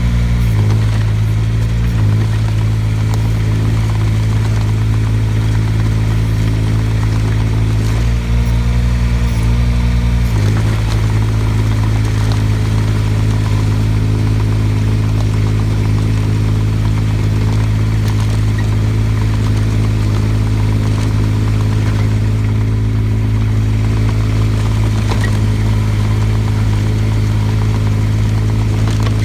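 Mini excavator engine running steadily while clearing snow. Its note shifts briefly about two seconds in and again from about eight to ten seconds in as the load changes, then holds steady.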